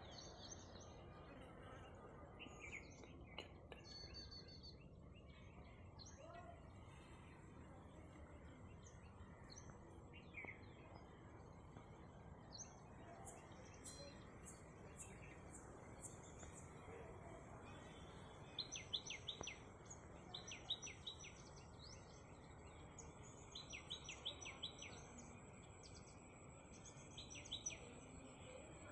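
Birds chirping and calling faintly over a steady low hiss, with rapid runs of short chirps in several groups in the second half. A thin steady high tone joins about two-thirds of the way in.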